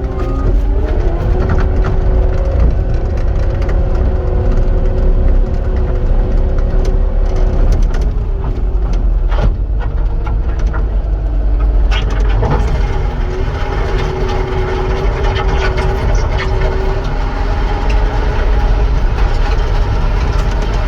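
Cat 259 skid steer running with a heavy low engine rumble. It revs up about a second in, holds steady, drops back around eight seconds and picks up again near twelve seconds, with a few sharp knocks along the way.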